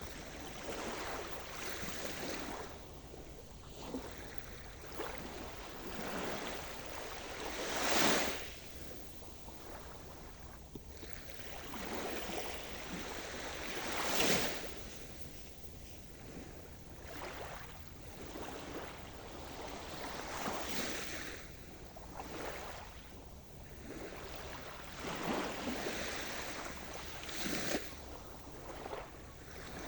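Sea surf: waves breaking and washing up the shore, each one a rush of noise that swells and fades every few seconds. The biggest breakers come about 8 and 14 seconds in.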